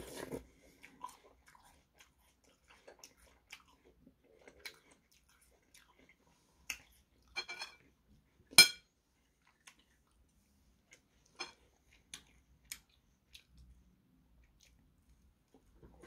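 Close-up chewing of fruit, with scattered soft clicks and one sharp clink of a metal fork against a porcelain plate a little past halfway.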